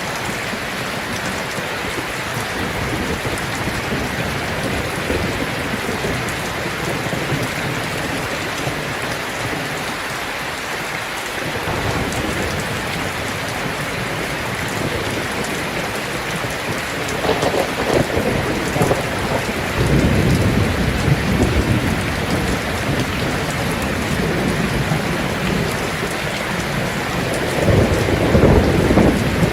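Heavy rain drumming steadily on a tin roof, with low rolls of thunder a little past halfway and again near the end.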